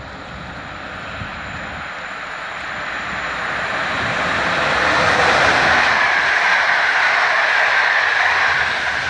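Electric locomotive-hauled passenger train approaching and passing through the station on wet rails. Its rushing wheel and carriage noise builds steadily and is loudest as the carriages go by near the end.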